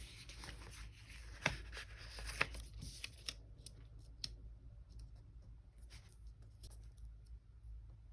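Quiet paper handling: small clicks, taps and rustles of sticker sheets and planner pages, with two sharper clicks about one and a half seconds in and again a second later.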